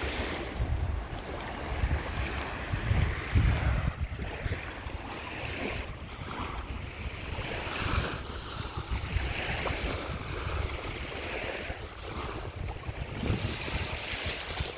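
Ocean surf breaking and washing up the beach, with gusts of wind buffeting the microphone, loudest about three seconds in.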